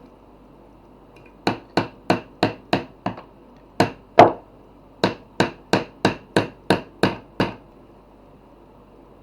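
Hammer blows on wood, a run of about sixteen strikes at roughly three a second: six quick blows, a short pause, two more with the second the loudest, then eight more.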